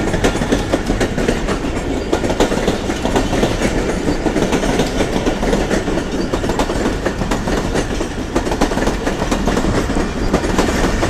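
Passenger coaches of a departing express train rolling past close by, their wheels clattering over the rail joints in a steady clickety-clack.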